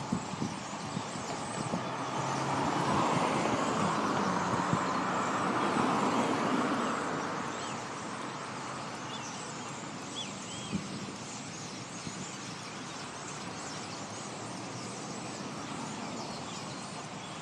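Road traffic: a vehicle passes, swelling and fading over a few seconds, then steady traffic noise continues. A few faint high bird chirps come through around the middle.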